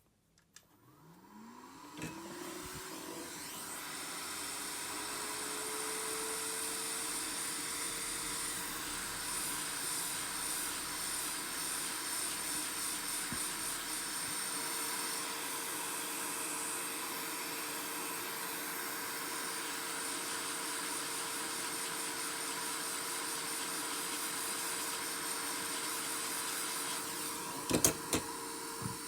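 A small electric motor spins up, rising in pitch over the first few seconds, then runs steadily with an airy hiss. A couple of sharp clicks come near the end.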